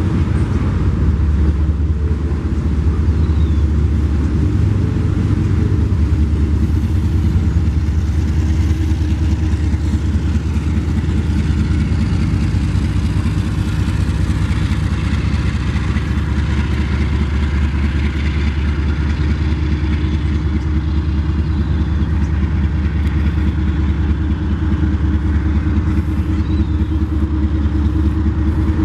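Union Pacific freight train rolling past, a loud steady low rumble with no let-up.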